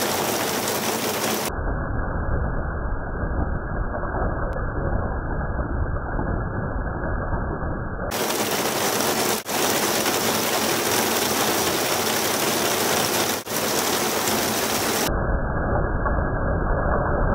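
Heavy rain falling in a steady, continuous hiss. In two long stretches, about a second and a half in and again near the end, the sound turns muffled with a deep rumble underneath.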